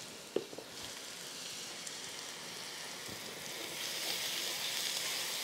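Mushrooms, onions and sun-dried tomatoes sizzling in butter and oil in a stainless steel skillet, a steady frying hiss, with one light click just after the start. From about four seconds in a spatula stirs through the pan and the sizzle gets a little louder.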